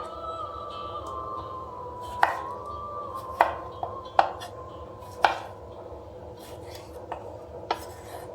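Eating utensils knocking against dishes: about half a dozen sharp, separate clicks at uneven intervals.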